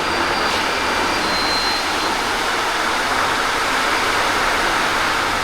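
Heavy rain, a steady loud rush of water.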